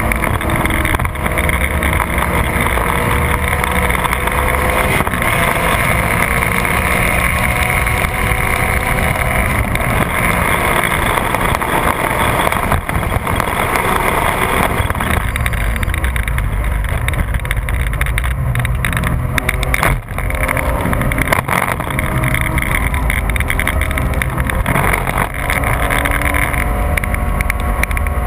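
Porsche 996 GT3's 3.6-litre flat-six engine at high revs under full throttle, its pitch rising as it pulls through the gears, with a brief drop in sound at a gear change about twenty seconds in. Steady wind and road noise lies underneath.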